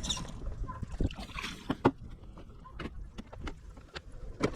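Water splashing and lapping, with scattered sharp knocks and a low rumble of wind on the microphone; one knock about two seconds in and another near the end stand out.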